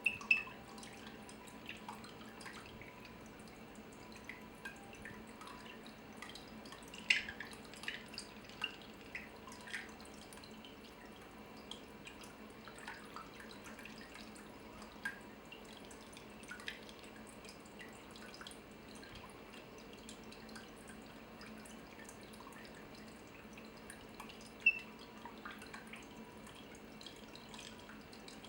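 Water dripping in slow, irregular drops, a few landing as louder plinks, over a faint steady hum.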